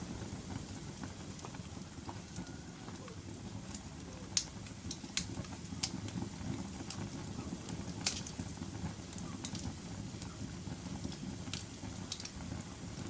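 Wood fire burning in a fireplace: a steady low rumble of flames with sharp crackles and pops scattered through, the loudest pop about four seconds in and another strong one about eight seconds in.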